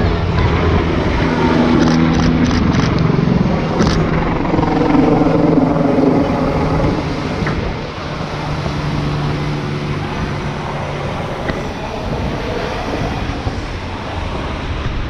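Military helicopter flying past, its engine and rotor tones gliding down in pitch during the first half as it passes, then running on more steadily and a little quieter.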